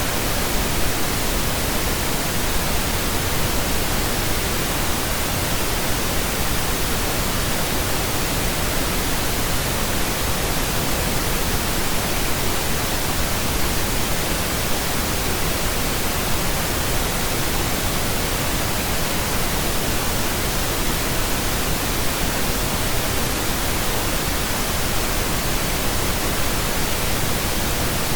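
Steady synthesized pink noise: an even, unchanging hiss spread across all pitches, with no tones or events in it.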